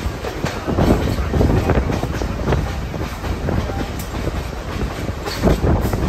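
Passenger railroad car rolling along the track: a steady low rumble with an uneven clatter of wheels over the rail joints.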